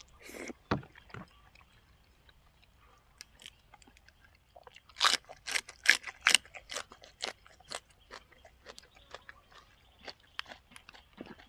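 Close-miked chewing with crisp crunches; a loud run of crunches starts about five seconds in, then lighter chewing clicks follow.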